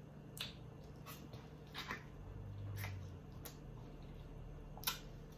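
Faint wet mouth sounds of a person chewing food: a handful of soft lip smacks and clicks, with a brief low hum about two seconds in.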